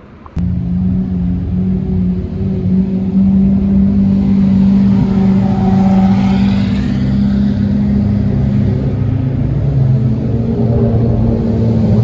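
A car engine running loud and steady at high revs, cutting in abruptly; near the end the revs drop and the note falls.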